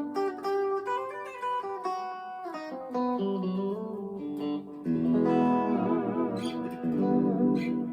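Electric guitar, a Fender Player II Stratocaster, played through an amp: picked single notes, then from about five seconds in, fuller strummed chords that ring on with a slight wavering in pitch.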